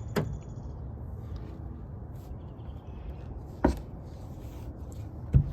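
Knocks and clunks from lifting and securing a 1990 Nissan 300ZX's hood by hand: a sharp click just after the start, another knock a little past halfway, and a heavier thump just before the end, over a steady low rumble.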